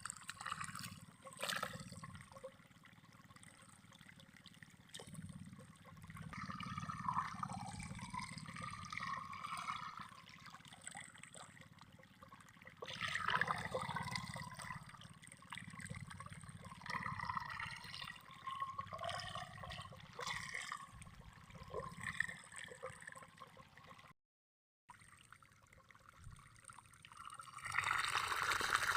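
Running water trickling and gurgling, as of a small stream, rising and falling in loudness. It drops out completely for under a second about 24 seconds in, and grows louder near the end.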